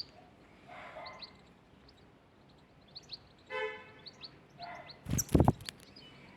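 Small birds chirping in short, repeated calls. A brief nasal, horn-like call comes about three and a half seconds in, and a few loud thumps follow around five seconds.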